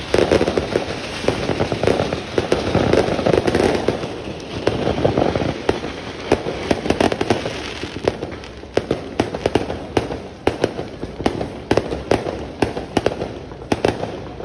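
Fireworks going off in a rapid, continuous run of bangs and crackles. For the first few seconds the reports blur into a dense rumble; after that they come as many separate sharp cracks, several a second.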